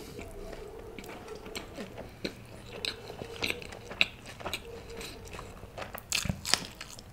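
Close-miked eating: wet chewing with irregular crunchy bites, the sharpest crunch about four seconds in and another cluster near the end as a raw green chilli is bitten.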